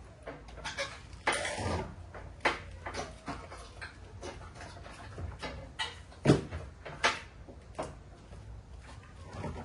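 Irregular knocks and clicks of tools and parts being handled during mower repair work, with a short scraping sound about a second in and a louder knock near the middle.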